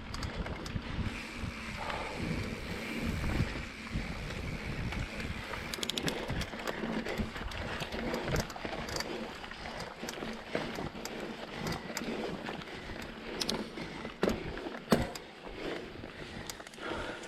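Mountain bike riding over a dirt singletrack trail: constant tyre and frame noise with many small clicks and rattles from the rough ground, and wind buffeting the microphone. A sharp knock about fifteen seconds in is the loudest moment.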